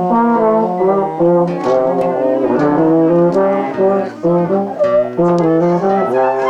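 Brass instrument playing a melody in held notes that change about every half second, with a few short breaks between phrases in the middle.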